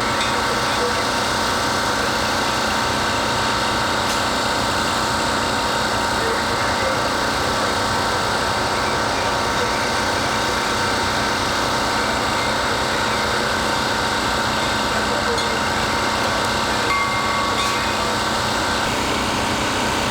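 Engine running steadily with a constant high whine over a dense mechanical drone, unchanging in level.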